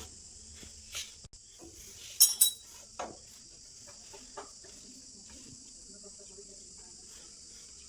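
A few sharp metallic clinks and knocks, the loudest a quick jingly cluster about two seconds in, as of metal parts or tools being handled, over a steady high hiss.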